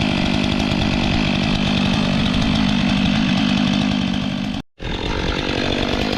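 STIHL MS 500i two-stroke chainsaw running steadily, cutting wood. The sound cuts out abruptly for a split second near the end, then carries on.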